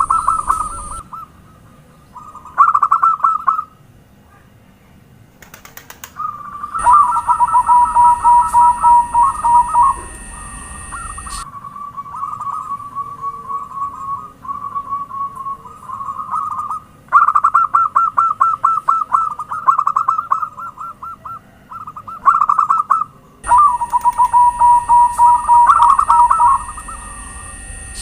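Zebra doves (perkutut) singing: phrases of rapid, staccato cooing notes, one after another with short pauses between them. A steady high hiss runs under some of the phrases.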